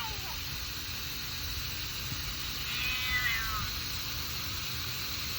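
Scottish Fold kitten meowing once about three seconds in, a drawn-out, slightly falling cry of protest at being bathed with soap and water, with the tail of an earlier meow at the very start.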